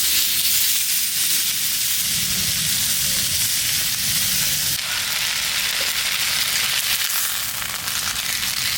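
Chicken thigh pieces sizzling steadily in a frying pan over a wood fire, the skin frying crisp in its own fat. The heat is high enough that some pieces are scorching.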